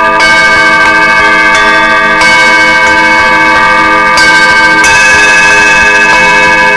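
Music of ringing, bell-like struck metal tones that sustain and overlap, with several new strikes a second or two apart layering over the ones still ringing.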